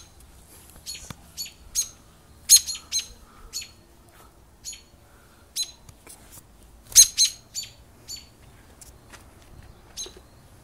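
Small bird giving sharp, high chip calls at irregular intervals, some in quick runs of two to four: the alarm scolding of a bird defending its nest against a person nearby.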